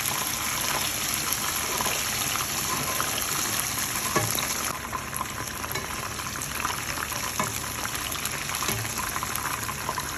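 Gram-flour-battered chicken pakoras deep-frying in hot oil: a steady sizzle with many small crackling pops, turning a little softer about halfway through.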